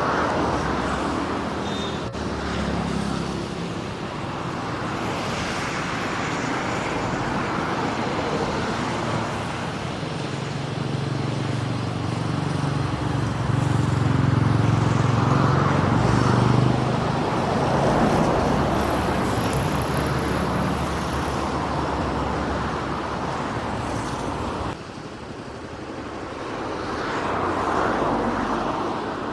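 Boeing 737-400's CFM56-3 turbofan engines at takeoff power, a loud continuous jet roar with a deep rumble. It swells and fades, is loudest around the middle, and drops abruptly about three-quarters of the way through.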